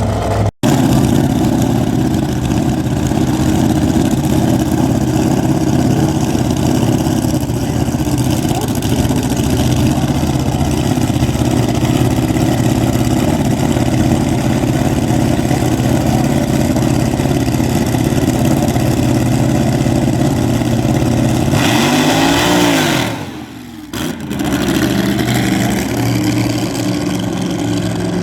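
Drag-race car engine running loudly with a steady low tone. About 22 seconds in, its pitch rises and falls and the sound briefly drops away.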